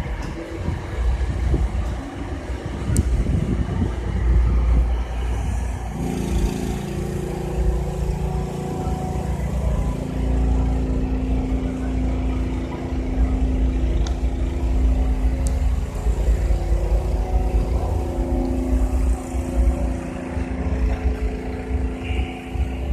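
A car engine running steadily at idle, with gusts of wind buffeting the microphone; the engine's steady hum sets in about six seconds in.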